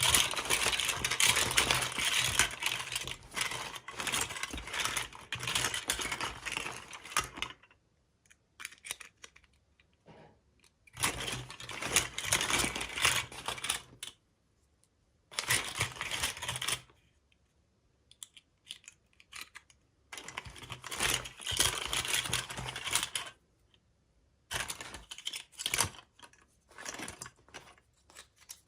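Toy packaging being handled and opened: plastic crinkling and clicking in bursts, a long stretch at first and then several shorter ones with quiet pauses between.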